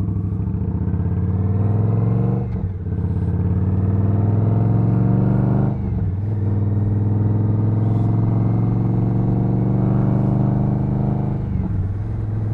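Motorcycle engine heard on the move, pulling up through the gears: the engine pitch climbs, dips briefly at three shifts (about two and a half seconds in, about six seconds in and near the end), then climbs again.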